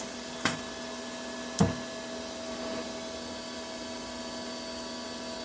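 Steady electric hum of a running machine, with two short sharp knocks, one about half a second in and a louder one about a second and a half in.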